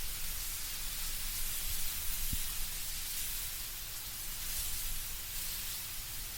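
Wind rustling leaves in autumn trees: a steady, soft hiss with gentle swells.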